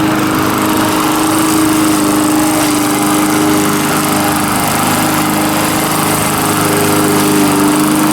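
Lawn mower engine running steadily at a constant speed, its loosened muffler flopping around yet not very loud.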